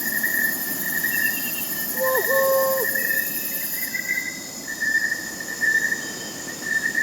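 Crickets chirping steadily, with a higher, thinner insect trill that stops about four seconds in. About two seconds in, a short whistle-like call with a quick dip in pitch and a held note sounds once.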